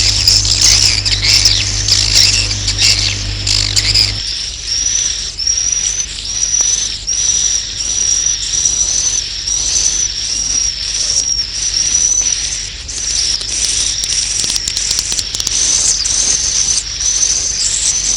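Swiftlet roosting calls ('suara inap') of the kind played to draw swiftlets into a nesting house. A dense chatter of high chirps runs for about four seconds over a low hum. Then it settles into a steady series of short high chirps, roughly one or two a second.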